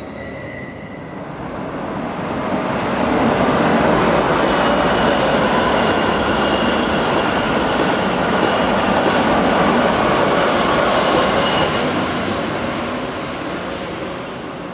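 A train passing close by on the tracks. The rolling noise swells over about two seconds, holds steady for about ten seconds, then fades near the end, with a faint high whine over it.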